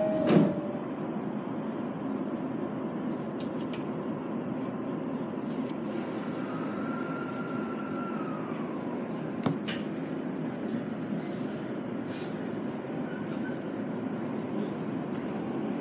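Steady running noise of an E217-series electric train, heard from inside the cab at the coupling between two sets. A sharp knock comes about half a second in and a smaller click just past the middle, with a brief thin whine before it that falls away.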